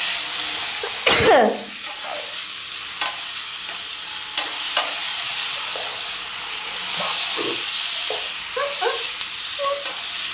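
Stir-fry of green peppers, dried tofu and pork sizzling steadily in a nonstick pan, with the scrapes and taps of a wooden spatula turning it. The loudest moment is a burst about a second in.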